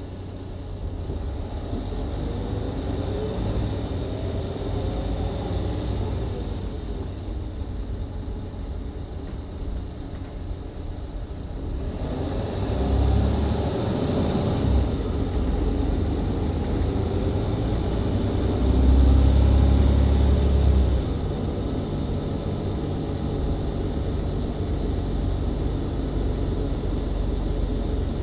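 Mercedes-Benz Citaro C2 hybrid bus's diesel engine and Voith automatic gearbox pulling away from a stop, heard inside the passenger cabin. The engine note climbs, drops back at a gear change about twelve seconds in and climbs again, with a heavy low rumble swelling about twenty seconds in. A steady high whine runs underneath.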